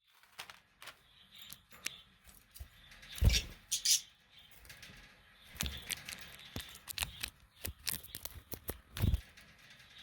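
Budgerigars moving about between songs: irregular light clicks and scratches, two louder dull thumps about three and nine seconds in, and a short high chirp about four seconds in.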